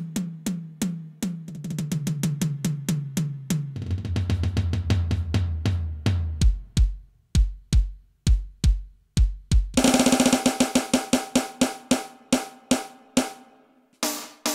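Electronic drum sounds from a Roland TD-8 drum module: fast tom strokes stepping down in pitch from high toms to floor tom, then a run of deep bass-drum hits. About ten seconds in comes a brighter, faster snare roll, then a brief pause before the hits resume near the end.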